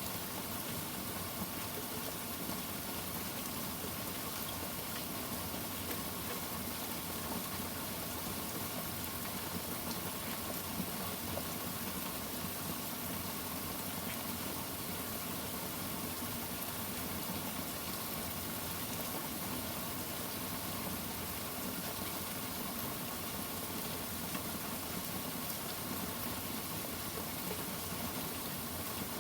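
Steady hiss of rain from a thunderstorm ambience, even throughout with no distinct thunderclap.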